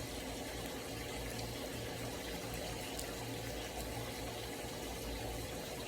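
Steady low hum and hiss of background noise, with no distinct sounds of packaging being handled.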